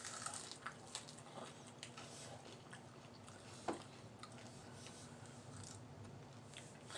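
Faint chewing and small mouth and eating clicks from someone eating fried food, with one short, slightly louder click about three and a half seconds in.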